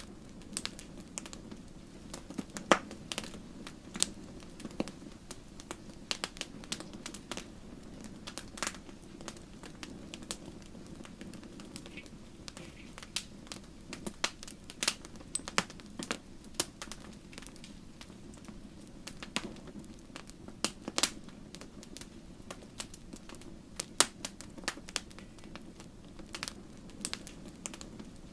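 Wood logs burning in a fireplace: irregular sharp crackles and pops, several a second, over a steady low rush of the flames. The loudest pops come about 3 seconds in and near 24 seconds.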